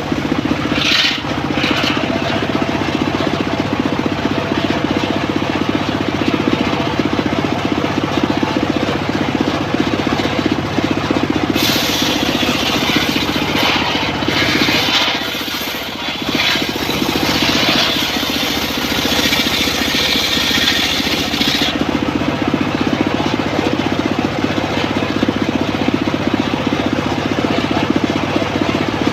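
A homemade engine-driven circular sawmill running steadily. About twelve seconds in, the blade bites into a teak log, and a hissing cutting noise rides over the engine for about ten seconds before dropping back.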